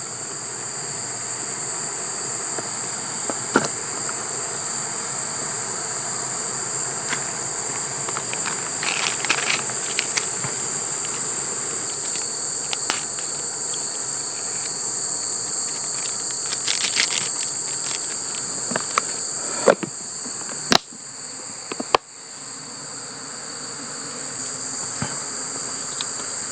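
A steady chorus of crickets chirping in high, continuous trills, with a few sharp knocks or clicks about three quarters of the way through.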